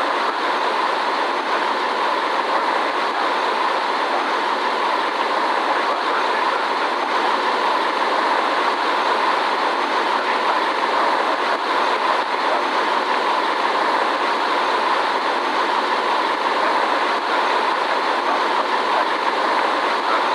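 Steady rushing noise inside a Boeing 787 airliner cabin in flight: airflow over the fuselage and the engines running at a constant setting, even and unbroken.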